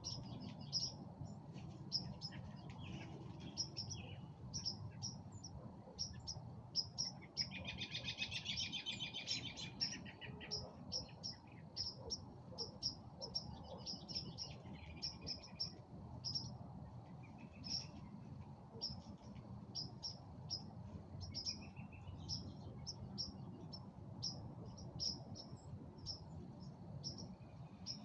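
Songbirds calling outdoors: one bird repeats a short, high chirp about once or twice a second throughout, and another sings a rapid trill about eight seconds in, with further short song phrases later. A steady low rumble sits underneath.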